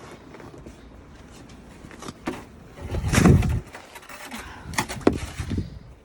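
Footsteps crunching through deep snow, irregular and uneven, with a louder low rush about halfway through.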